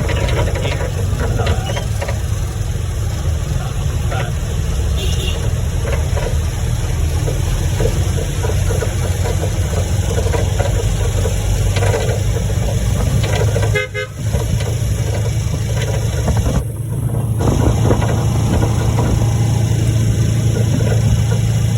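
A motor vehicle's engine running with a steady low hum and road noise, with a short horn toot about two-thirds of the way through.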